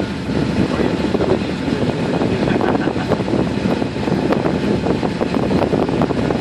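Small passenger water taxi under way, its engine and the water rushing past the hull making a loud, steady noise.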